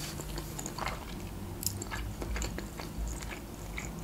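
Close-miked mouth sounds of a person chewing a mouthful of Azerbaijani khinkal, soft boiled dough with fried meat, with scattered small wet clicks.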